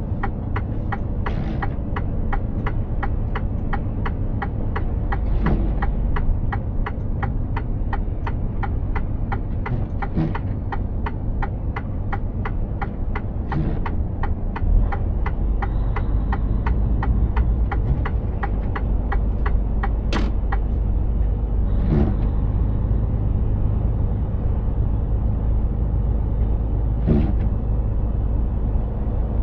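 Cab noise of a Mercedes-Benz Actros truck on the move: steady engine and road rumble that grows fuller about halfway through. Over it, a fast, even ticking of about three ticks a second runs for the first two-thirds and then stops, with a few soft knocks scattered through.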